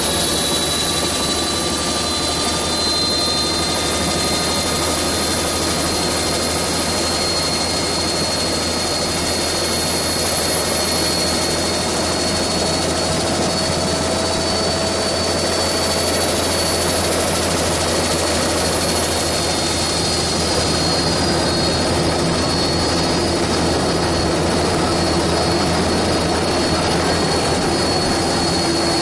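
Helicopter in flight, its engine and rotor running steadily and loudly with a high whine.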